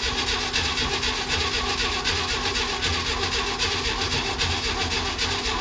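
1969 Jeep Willys CJ5 engine cranking over steadily on the starter motor with the accelerator held to the floor, not firing: a hard cold start after about seven months of sitting.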